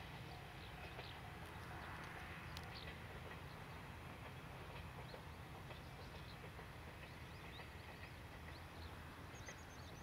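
Faint outdoor ambience: a low steady rumble with scattered short bird chirps, and a quick run of high chirps near the end.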